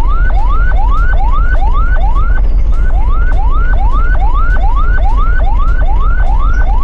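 Electronic siren: a rising whoop repeated about two and a half times a second over a loud low rumble, starting and cutting off abruptly.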